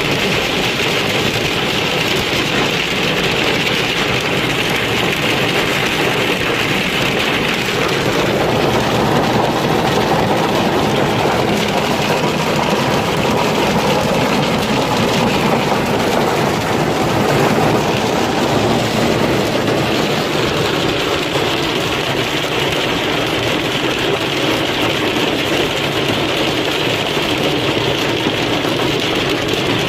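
Hailstorm: countless hailstones pelting hard surfaces in a dense, unbroken clatter.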